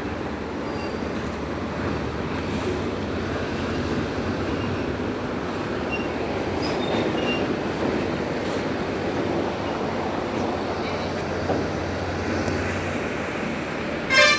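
Six-cylinder diesel engine running steadily. Near the end comes a brief, loud, high-pitched squeal.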